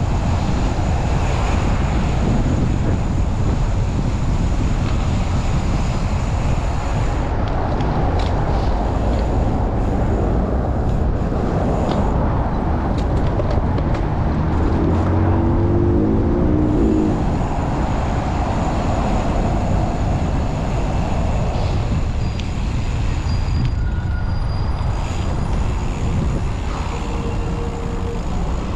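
Strong wind rumbling on the microphone of a bicycle rider's chest-mounted camera, over city traffic noise from passing vehicles. About halfway through, a wavering pitched sound from a passing vehicle rises briefly above the wind.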